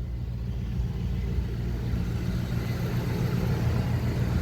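1973 Dodge D100 pickup's engine idling warm, a steady low rumble.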